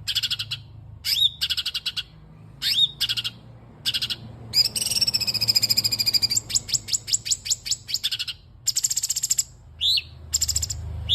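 Songbird song mixed for shama training, blending reed warbler, canary and cungkok phrases: short bursts of fast, high repeated notes with brief pauses, a longer trill about halfway through, then a quick run of dry clicking notes. A steady low hum runs underneath.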